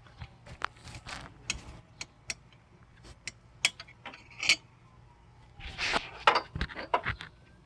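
Irregular metallic clicks and clinks of hand tools and bolts being worked loose on a truck, with a scuffling rustle about six seconds in.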